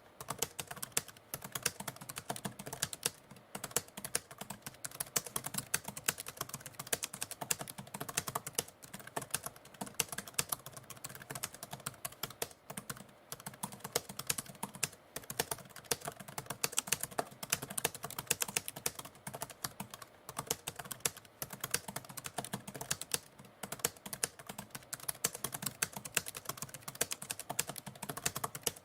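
Typewriter keys clacking in fast, continuous typing, a dense stream of sharp strikes with no real pauses.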